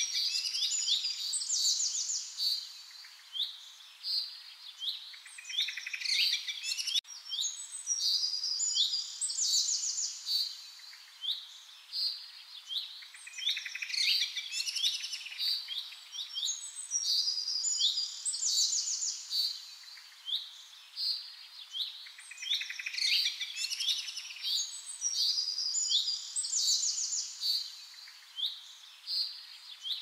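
Songbirds chirping and singing, many quick overlapping calls coming in bursts every few seconds.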